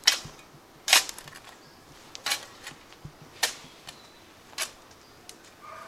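Five sharp clicks, evenly spaced about a second apart.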